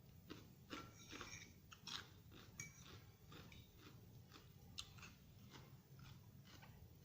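Faint chewing of a raw vegetable salad: a run of quick, crisp crunches in the first few seconds, then slower, scattered crunches.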